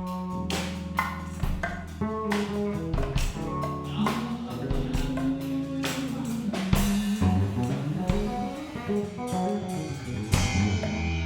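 Band playing an improvised jazz-blues instrumental: electric guitar and bass over a drum kit with a steady beat.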